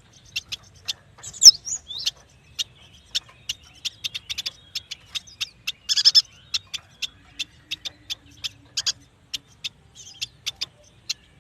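Yuhina calling: a quick run of short, sharp high chips at about three or four a second, with a louder gliding call about a second and a half in and a dense chattering burst midway.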